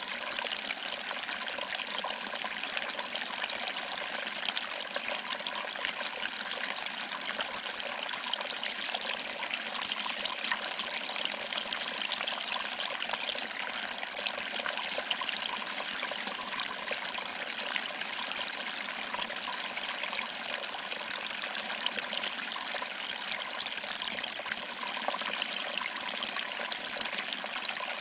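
Small waterfall: water trickling over rocks and splashing into a pool, a steady, even rush with little deep rumble.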